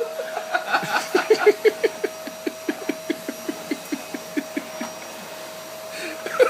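Vacuum cleaner running with a steady whine, over a rapid series of short squeaks, about four or five a second, that stop near the end.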